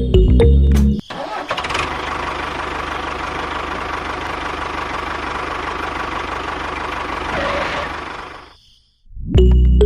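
A small motor running steadily, which fades out near the end.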